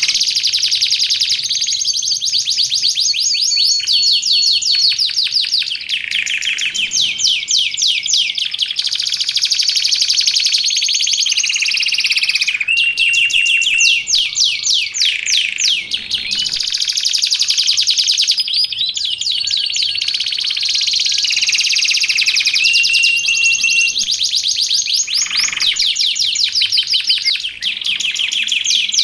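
Canary singing nonstop in long, rapid trills of repeated high notes, one roll running straight into the next, with a few short held whistles in between.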